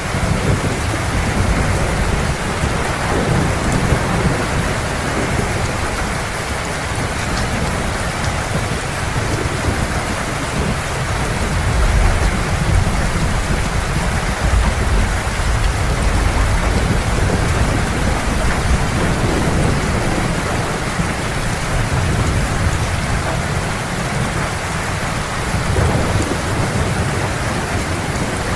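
Heavy rain falling in a steady hiss, with low rolling thunder that swells and fades several times underneath.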